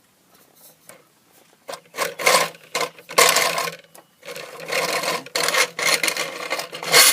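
Bike-powered wheat grinder being turned, its mechanism rasping and grinding in irregular surges that start about two seconds in. It turns stiffly because the tension is set on.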